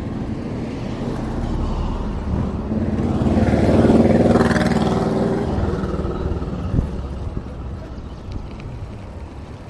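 A motor vehicle passes close by: its engine builds, is loudest about four seconds in, drops in pitch as it goes past, then fades away.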